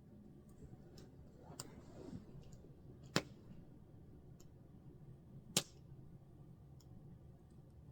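Campfire crackling faintly, with scattered small ticks and two sharp pops a little over two seconds apart.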